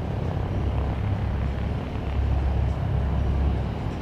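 DC-10 air tanker's three turbofan engines heard on its landing approach: a steady low rumble.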